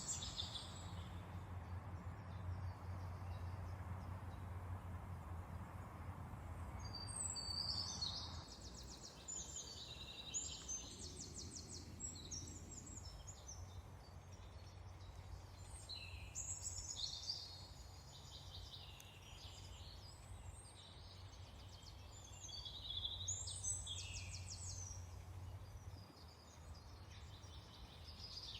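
Songbirds singing: many high chirping and rapid trilling phrases, one after another, over a steady low background rumble.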